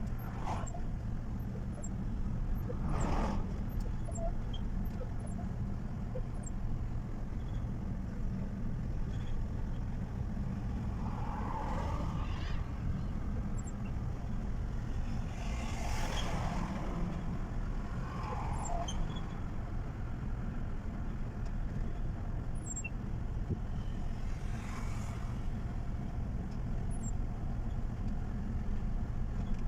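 Truck in motion on the road: a steady low engine and road rumble, with a few brief swells of louder noise along the way.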